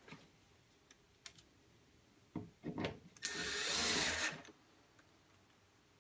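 Cordless drill driving a screw into a PVC panel: a few short knocks, then one run of just over a second, about three seconds in.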